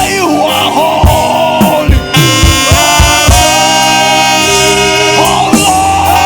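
Live worship band music: a saxophone playing a gliding melody over sustained keyboard chords, with a kick drum thumping underneath.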